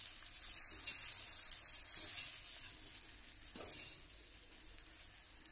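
Potatoes frying in hot oil in a steel kadhai: a steady, hissing sizzle that grows quieter near the end.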